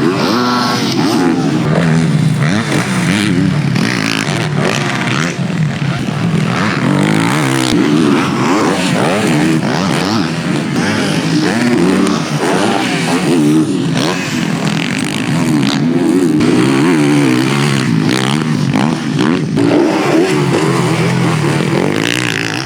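Yamaha YZ450F single-cylinder four-stroke motocross bike ridden hard on a dirt track, its engine revving up and falling back again and again as the rider accelerates, shifts and shuts off.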